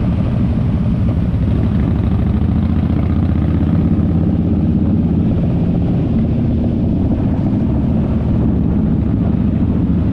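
Motorcycle engine running steadily at an even pitch, with no change in speed.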